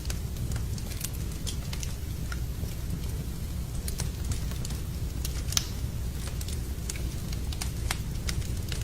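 Wood fire burning in a fireplace, crackling with irregular sharp pops and snaps over a steady low rumble of the flames. The strongest pop comes about halfway through.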